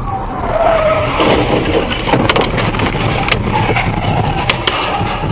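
Steady car road and engine noise heard inside the cabin, louder from about a second in. A run of sharp knocks or cracks follows from about two seconds in.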